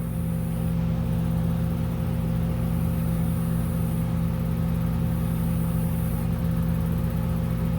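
Electric fan running steadily to clear gasoline fumes, a constant low hum with a few steady pitched tones over a rumble.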